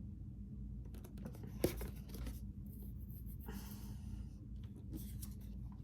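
Faint rustling and a few light clicks of tarot cards being handled, over a low steady room hum.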